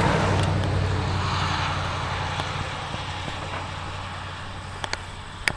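A road vehicle passes, its tyre and engine noise fading away steadily, with a low hum under it. A few sharp clicks follow near the end.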